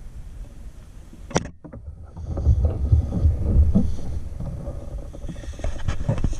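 Wind and engine rumble on a moving motorcycle, uneven and gusty, briefly cutting out about a second and a half in.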